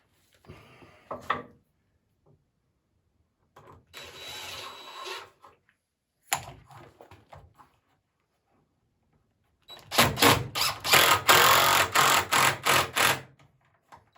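Power drill driving a 2-inch screw into poplar wood, run as a string of short trigger bursts for about three and a half seconds near the end. A softer, shorter run and a knock come earlier.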